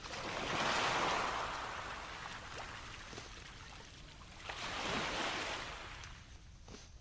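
Sea waves washing onto the shore, two swells of surf rising and falling about four seconds apart.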